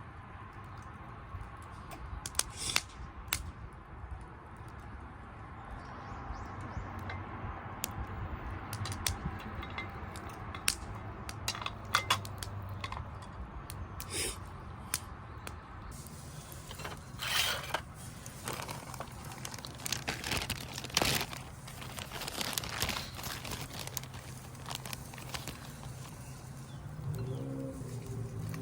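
Irregular crackles, clicks and crinkling handling sounds, denser in the second half.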